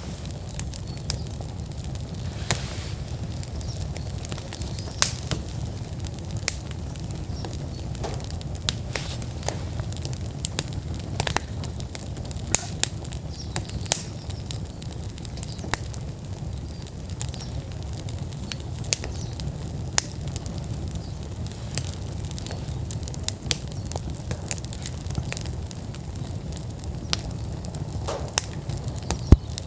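Outdoor wood fire in a fire pit burning at full flame, crackling with irregular sharp pops over a steady low rumble; one of the strongest pops comes near the end.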